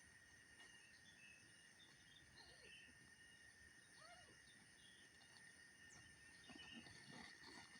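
Faint night insects trilling steadily in a forest, with small chirps scattered through and a few faint crackles near the end.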